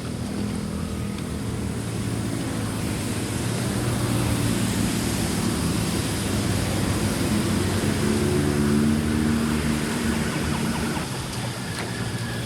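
An engine running with a low hum whose pitch shifts up and down, growing louder toward the middle and easing off near the end.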